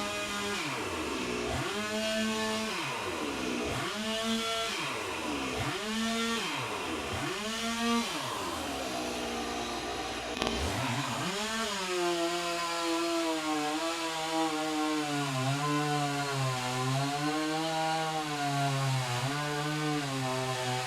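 Stihl 026 two-stroke chainsaw revved in about five short throttle blips, pitch rising and falling every couple of seconds, as the carburettor is being tuned. It drops low briefly near the middle, then is held at high revs with the pitch wavering slightly.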